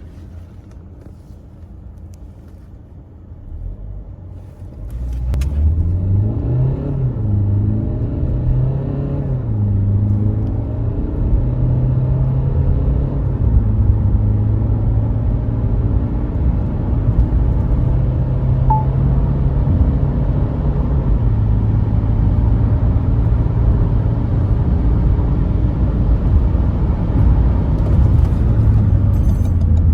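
Renault Mégane IV 1.5 dCi four-cylinder turbodiesel idling quietly, then accelerating hard from about five seconds in. The engine note rises and drops back at quick gear changes of the EDC dual-clutch gearbox, then climbs slowly in the higher gears over a steady road rumble.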